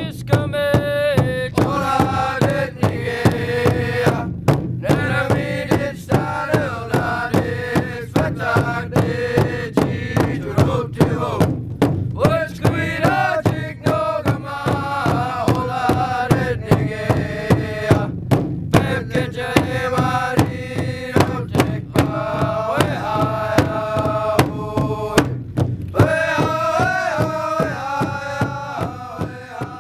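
Voices singing a traditional Indigenous drum song in unison over an even, steady beat on a rawhide drum.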